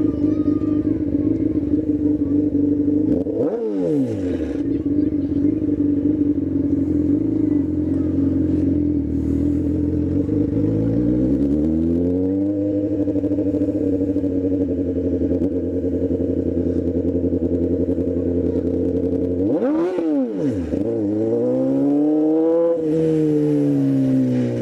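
Motorcycle engine running while riding, a steady note with sharp brief drops in revs about 4 seconds in and about 20 seconds in, and the revs climbing again around 12 and 22 seconds as the bike pulls away through the gears.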